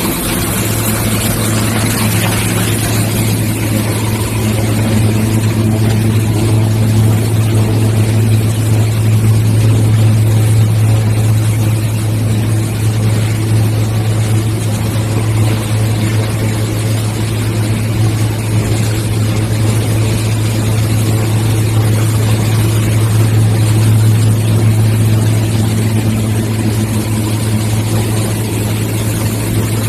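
Plastic film washing machine running: a loud, steady machine hum with a strong low drone that does not change.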